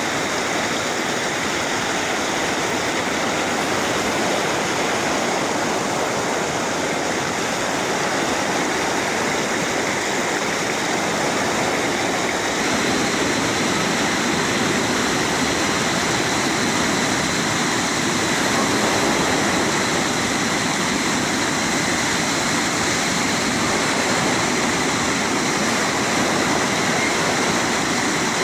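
Waterfall: water rushing and splashing in a steady, unbroken stream of noise.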